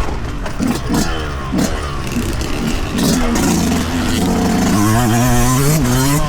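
Yamaha YZ125 two-stroke single-cylinder dirt bike engine revving in short on-off throttle blips, then a longer pull with the pitch rising in the second half. A few sharp knocks are mixed in.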